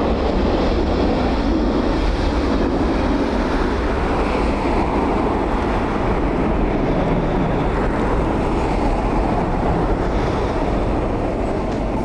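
Steady roar and rumble of an Airbus A330-300 airliner on its landing rollout, with no distinct thumps.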